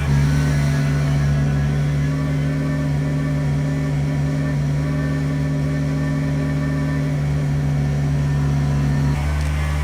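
Kubota BX23S tractor's three-cylinder diesel engine running steadily at constant revs. The note shifts slightly about nine seconds in.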